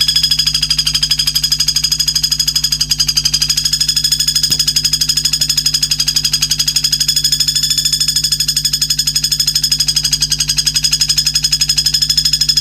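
A recorded animal trill played as song-training material for a murai batu: a steady, shrill buzzing trill pulsing about ten times a second, over a low hum, starting and stopping abruptly.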